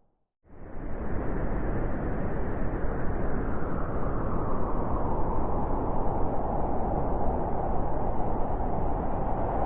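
Blizzard wind blowing hard, a steady rushing noise that fades in from a moment of silence about half a second in, with a band of howl growing stronger in the second half.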